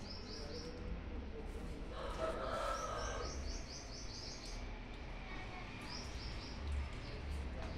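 A bird chirping in quick runs of short, high, descending notes, three runs in all. There is a brief louder noisy patch in the middle, over a low steady hum.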